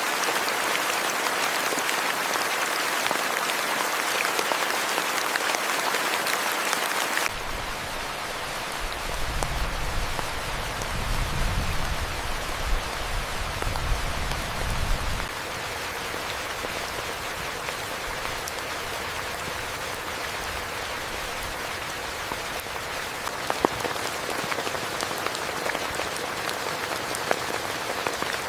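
Rain falling steadily. About seven seconds in, a heavy, even hiss switches abruptly to lighter rain with scattered individual drop ticks, and a low rumble sounds under it for several seconds after that.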